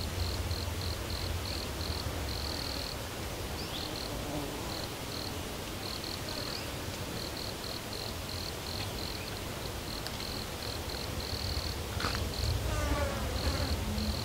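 A cricket chirping in short, evenly pitched pulses, several a second, over a low rumble. A few brief bird calls come in near the end.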